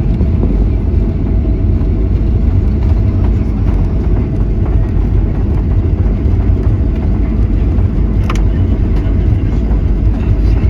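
Steady low rumble inside the cabin of a Boeing 737-800 taxiing after landing, its CFM56-7B engines at idle, with a faint steady whine. A single short click comes about eight seconds in.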